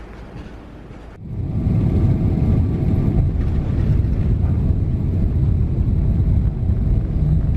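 Airliner cabin noise: a steady, loud low rumble of engines and airflow heard from inside the cabin, starting abruptly about a second in after a quieter low hum.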